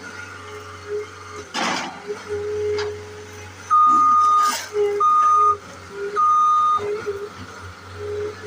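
Skid steer engine running with a crash of debris about a second and a half in, then its backup alarm beeping three times, each beep about half a second long.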